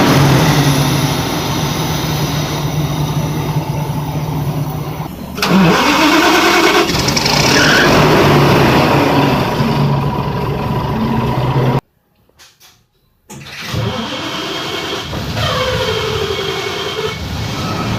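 Daewoo BS110 city bus engine running, with rising and falling pitch as it revs; it gets suddenly louder about five seconds in. The sound cuts off abruptly for over a second about two-thirds of the way through, then the engine is heard again, sweeping up and down in pitch.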